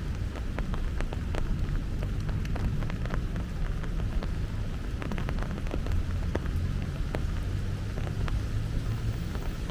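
Heavy rain falling, with many sharp, separate drop ticks over a steady low rumble.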